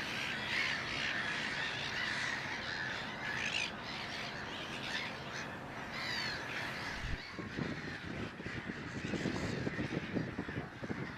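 A crowd of birds calling harshly at once, a dense colony chorus of overlapping calls. Low rumbling noise comes in during the second half.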